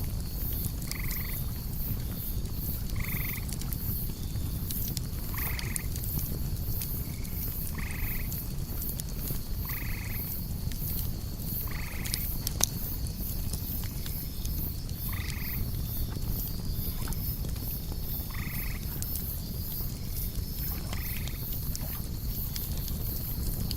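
Campfire burning with a low rumble and fine crackling, with one sharp pop about halfway through, under a steady high rhythmic chirping of crickets. A short animal call repeats about every two seconds over it.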